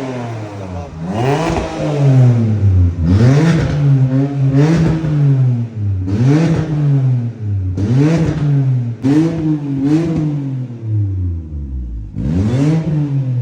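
BMW 630i engine revved through its switchable valve exhaust system in a series of quick blips, about eight, each rising and falling in pitch, with a short pause shortly before the end.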